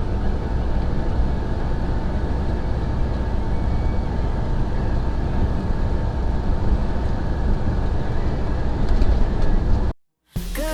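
Semi truck cab noise at highway speed: a steady rumble of engine and tyres on rough pavement, heaviest in the low end. It cuts off suddenly near the end.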